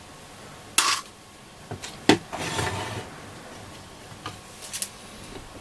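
Two sharp clacks, about a second and two seconds in, followed by a short rustle and a few light clicks: hard parts and tools being handled and set down while a scanner receiver is taken apart.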